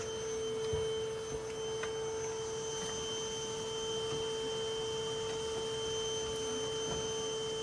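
Steady, unchanging high-pitched hum: a single held tone with fainter overtones, with a few faint ticks over it.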